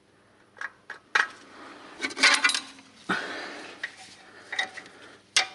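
Light metallic clinks and rattles of the handbrake cable's metal end fittings and clips being handled and fitted, a handful of separate sharp clicks with a busier cluster about two seconds in.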